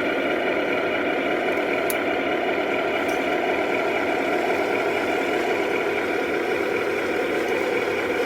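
Remote-control 8x8 truck running steadily: a constant whine over a steady rumble, with a couple of faint clicks partway through.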